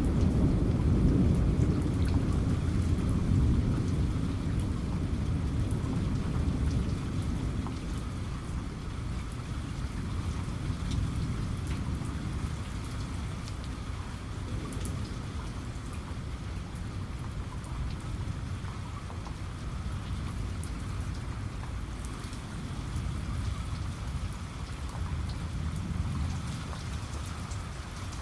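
Heavy rain pattering steadily, with a low rumble of thunder that is loudest at the start and dies away over the first ten seconds or so, then swells briefly again near the end.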